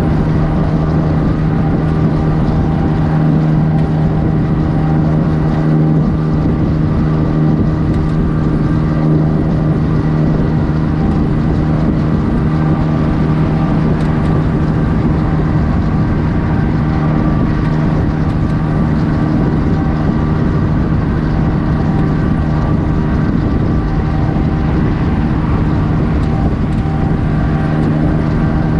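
Straight-piped diesel engine of a Kenworth W900 truck running at a steady speed, a loud, constant drone with no change in pitch.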